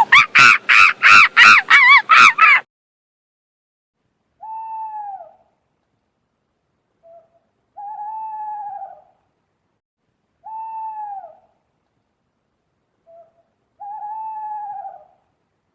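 A rapid series of loud, high animal calls, about three a second, stopping after about two and a half seconds; then, after a pause, four single lower hoots spaced about three seconds apart, two of them led by a short soft note.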